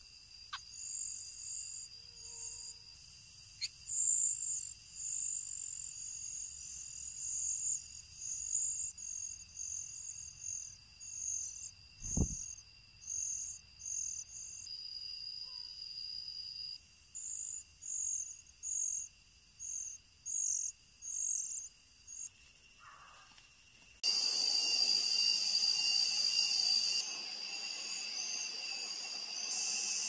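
Small bird giving repeated short, high chirps, about one and a half a second, over a steady high insect drone. There is a single knock about twelve seconds in, and about three-quarters of the way through a louder insect hiss takes over.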